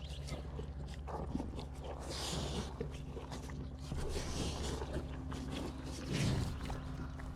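Cattle feeding on corn silage: rustling of feed and bursts of snuffling and breathing from the animals, with heavier low sounds about six seconds in, over a steady low hum.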